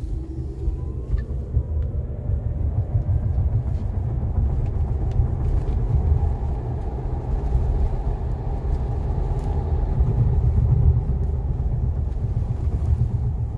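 A steady, loud low rumble that runs unbroken, with no clear tone or rhythm.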